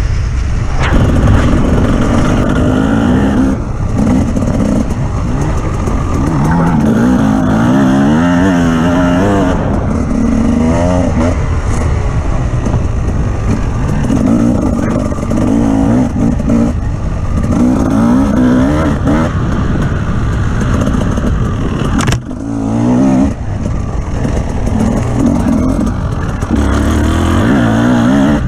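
Off-road vehicle engine revving up and falling back again and again under load, over a heavy low rumble and clatter. A sharp knock about 22 seconds in.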